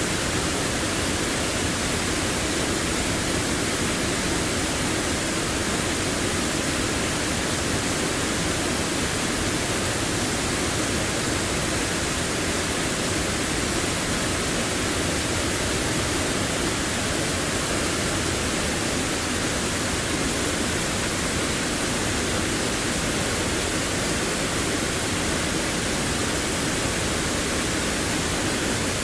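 A waterfall's steady rush of falling water, an even, unbroken wash of sound.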